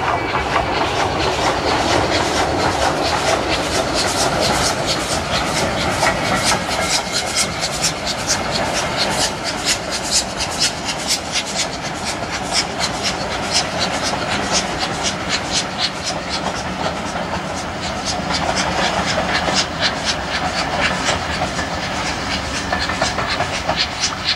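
Steam-hauled passenger train running past, its coaches' wheels clicking quickly and steadily over the rail joints above a continuous rumble.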